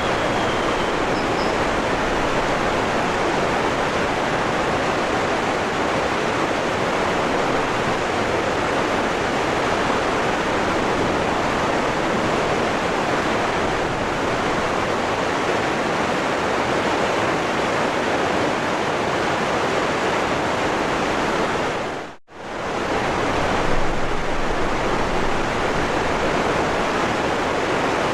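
Waterfall rushing steadily. About three quarters of the way through it fades out briefly to near silence and comes straight back.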